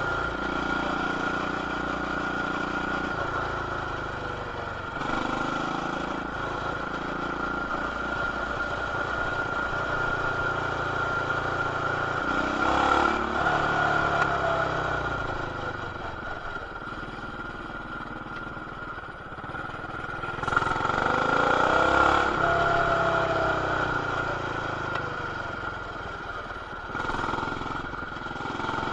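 Coleman BT200X mini bike's single-cylinder engine running while ridden, its engine speed rising and falling several times, with a steady high-pitched whine throughout. It is heard through an action camera's plastic housing, which muffles it.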